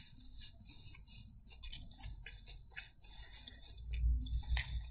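A person chewing and biting food close to the microphone: soft crunches and wet mouth clicks, with a few heavier low bumps about four seconds in.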